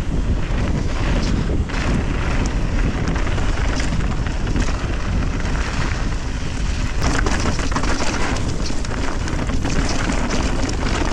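Wind buffeting the microphone with a steady rumble while a mountain bike rides down a trail, with scattered knocks and rattles from the bike over rough ground.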